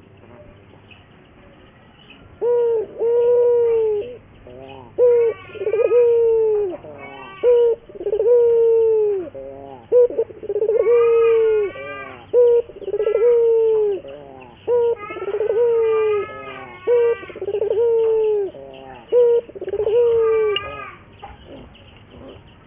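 Puter turtle dove cooing in a long run of low coos, each about a second long and slightly falling in pitch, starting a couple of seconds in and stopping near the end. Fainter, higher wavy calls sound over some of the coos.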